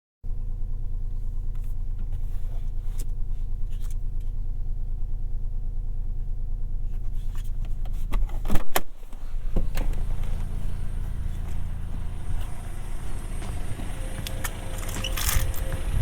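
Toyota Yaris 1.5 Hybrid's three-cylinder petrol engine running steadily at a low hum. Scattered clicks and knocks sound over it, with a louder knock about halfway and a cluster of sharp clicks near the end.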